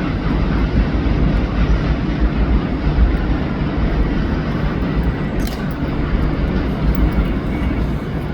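Steady, loud rumble of a moving vehicle, heaviest at the low end, with a sharp click about five and a half seconds in.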